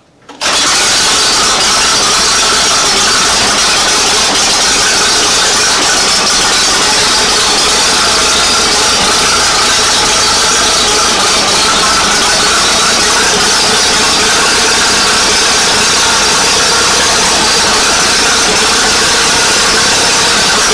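1940 Fordson N tractor's four-cylinder side-valve engine running loud and steady, starting abruptly under a second in.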